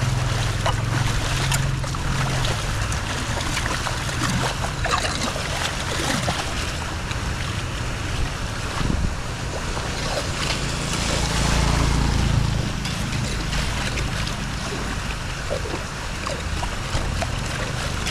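Floodwater rushing steadily into a cleared storm drain, with a low rumble under the rush and a few faint clicks and splashes.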